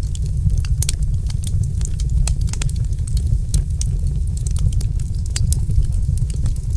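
Wood fire burning in a fireplace, crackling with frequent sharp pops and snaps, several a second, over a steady low rumble of the flames.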